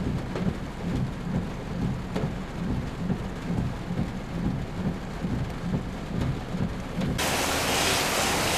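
Heavy rain with a low, pulsing rumble underneath. About seven seconds in, the sound switches abruptly to a louder, brighter, steady rain hiss.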